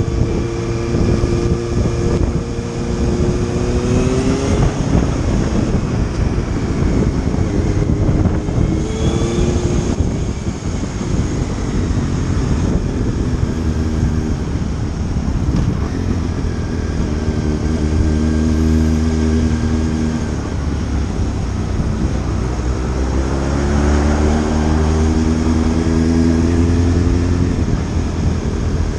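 Motorcycle engine running on the road under heavy wind and road noise, its pitch climbing several times as it accelerates and dropping back between.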